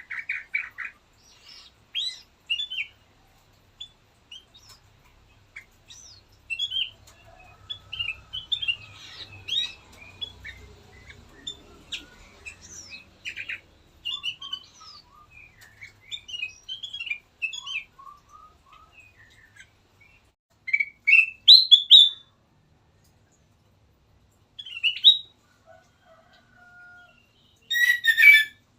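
Kutilang emas bulbul singing a varied run of short chirps and quick whistled phrases, with gaps between, and louder phrases about three-quarters of the way through and just before the end.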